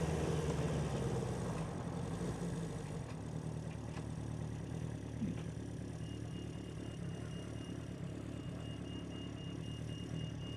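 1976 Honda 400/4's air-cooled inline-four engine running, quietening over the first few seconds and then holding a steady lower note. A faint high pulsing beep comes in about halfway through.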